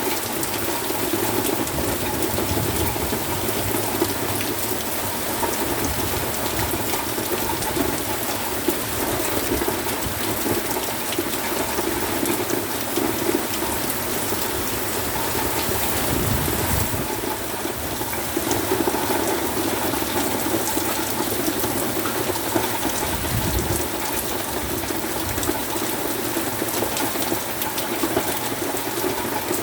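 Heavy rain pouring steadily in a storm with strong wind, with two brief low gusts buffeting in the second half.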